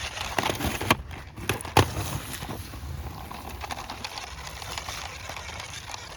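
Handling noise: rustling with a cluster of sharp clicks and knocks in the first two seconds, the loudest just under a second and about two seconds in, then quieter rustling.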